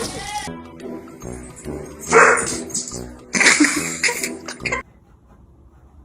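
A dog barking in two loud bursts, the second longer, about two and three and a half seconds in, over background music that cuts off near the end.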